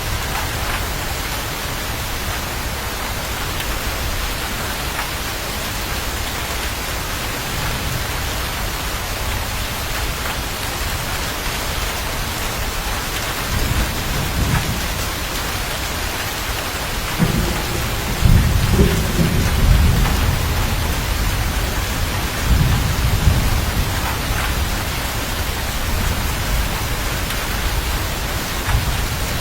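Steady heavy rain with rolling thunder: deep rumbles build about halfway through and peak over several seconds before fading, with a smaller rumble near the end.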